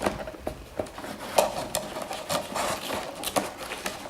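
Irregular clicks and rustles of a clip-on day-and-night car visor being handled and unfolded.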